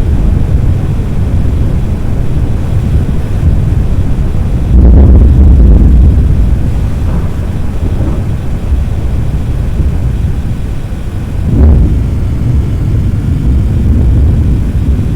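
Deep, continuous thunder rumbling from a severe thunderstorm, swelling louder about five seconds in and again near the end.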